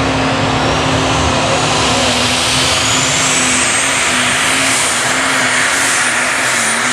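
Diesel super stock pulling tractor running hard under load while pulling the sled. A high turbocharger whine climbs and then holds steady from about three seconds in.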